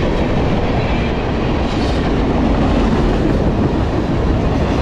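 Empty tank cars of a freight train rolling past close by: steel wheels running on the rails, a steady, loud noise.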